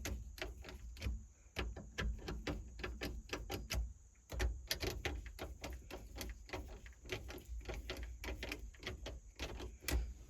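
Rapid, irregular metallic clicks and taps, several a second, with a short pause about four seconds in, as a new turn signal switch is worked down into a tight fit in a 1971 Chevy C10 steering column.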